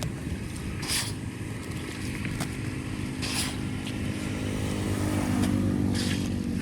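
A motor engine running steadily, with three short rushes of noise over it, about two and a half seconds apart.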